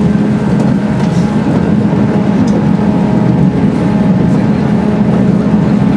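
JR 185-series electric train running at speed, heard from inside the car: a steady rumble with a constant hum over it.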